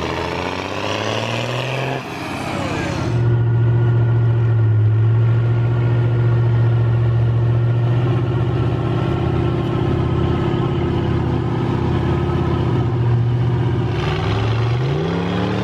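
Large off-road truck engine running steadily under load, then revving up in a few rising sweeps of pitch near the end.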